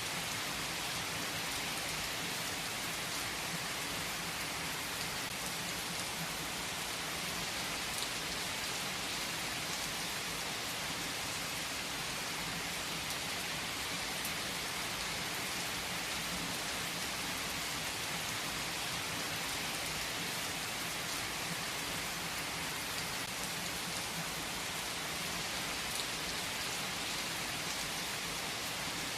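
Steady heavy rainfall, an even hiss of drops on a surface, with an occasional louder single drop.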